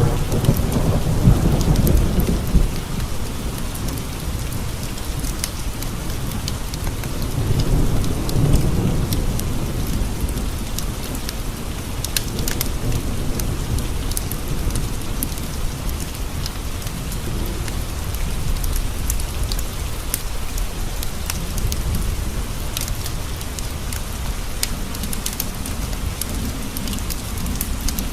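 Steady rain pattering on a window, with low rolling thunder rumbles near the start and again about eight seconds in. Scattered sharp ticks run through it.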